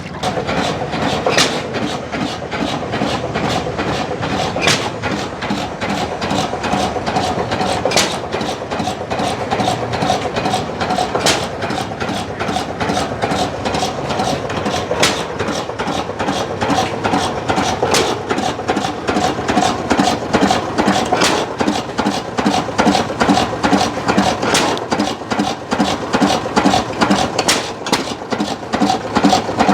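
Antique hit-and-miss stationary gas engines running, with a fast steady clatter and a sharp bang from an engine firing about every three and a half seconds.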